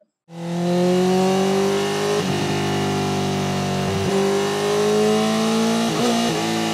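Honda CBR1000RR inline-four engine running under load on a dyno, fading in a moment after the start. Its pitch creeps slowly upward, with brief small dips about every two seconds.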